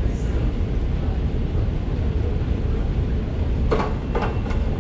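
Steady low rumbling background noise of an underground railway station, with a few short sharp knocks or clicks close together near the end.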